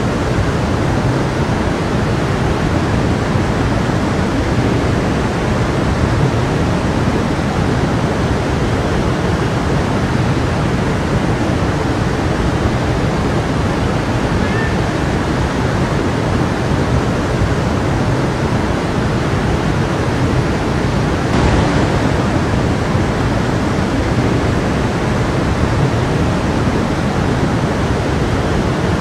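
Stream water running over rocks in a steady, even rush.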